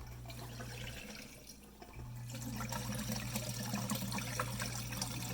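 Jenn-Air dishwasher running its drain cycle: the drain pump hums, stops briefly about a second in, then resumes, and water flow builds from about two seconds. The water is draining freely through the sink's air gap now that a clog has been pulled out of it.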